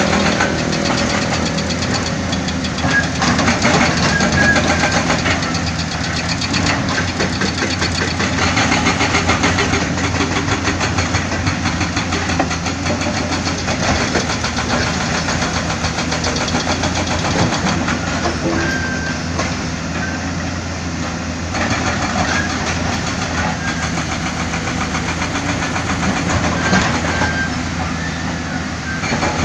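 Heavy diesel construction machinery, excavator and dump truck engines, running steadily, with occasional short knocks over the engine noise.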